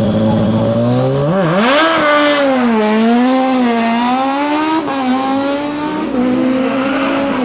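Racing car engine pulling hard under acceleration. Its pitch climbs steeply about a second and a half in, wavers at high revs, drops back near the five-second mark and then holds steadier near the end.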